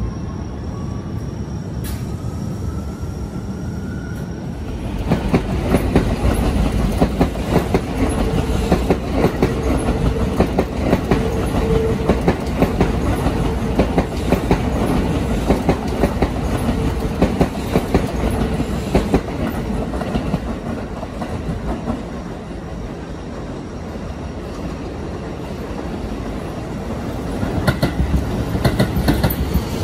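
Keio Line electric commuter trains on the tracks. A motor whine rises in pitch for the first few seconds, then from about five seconds in a passing train's wheels clatter rapidly over rail joints and points over a loud rumble and a steady hum. The clatter eases off, then picks up again near the end as another train passes.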